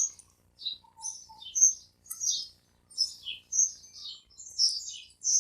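Small birds chirping, short high-pitched calls coming about two a second.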